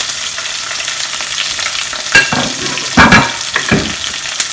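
Oil sizzling in a nonstick wok as julienned ginger goes in with frying green chillies. A few louder scraping knocks against the pan come about two, three and three and a half seconds in.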